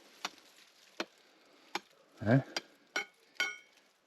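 About six sharp taps on rock, roughly one every half to three-quarters of a second, the last ones ringing briefly: the stone being sounded out for a hollow behind it.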